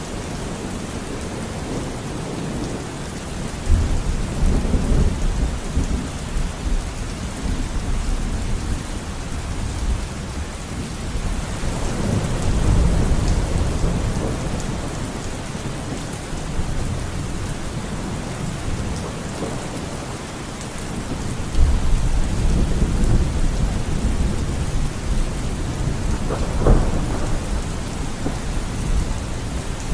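Steady rain with several long, low rolls of thunder, and a sharper thunderclap near the end.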